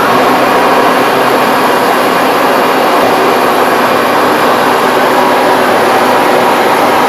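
Sawmill running under load as its blade cuts through a log: a loud, steady mix of engine and sawing noise.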